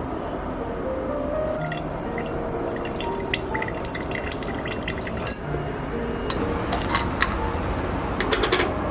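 Water running, with scattered light clicks and clinks. Faint sustained notes sound underneath.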